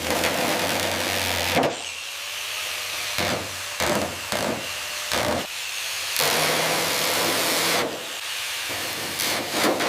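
Workshop tool noise: two long bursts of hissing, each with a steady motor hum under it, between a run of short sharp knocks and clicks.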